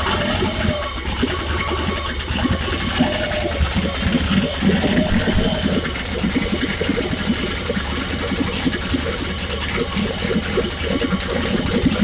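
Turbocharged LS V8 running steadily on its first start-up under a freshly fitted Holley Terminator X, with no exhaust pipe yet built after the turbo.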